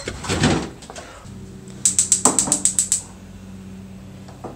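Gas range burner's spark igniter clicking rapidly as the knob is turned to light it, about eight sharp clicks a second for about a second. A steady low hum runs underneath.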